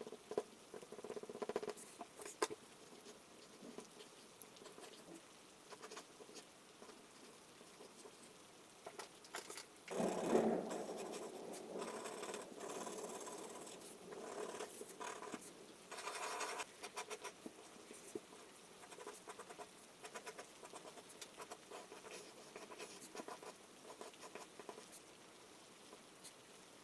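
Rain pattering, with a louder, denser rush about ten seconds in.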